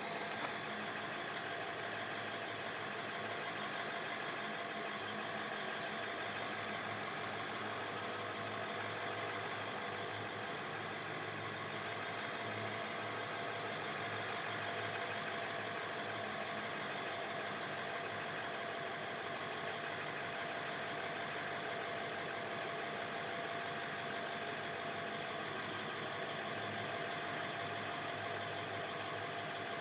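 Truck engine idling steadily, with a steady tone held over it.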